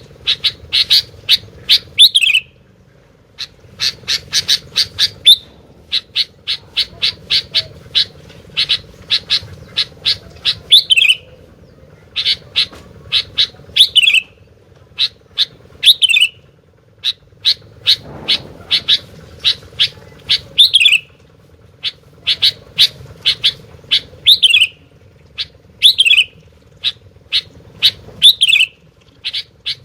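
A gentilang, a kutilang-type bulbul, singing on and on: fast runs of short, clipped notes, each phrase ending in a downward-slurred note, repeated every two seconds or so. A steady low hum runs underneath.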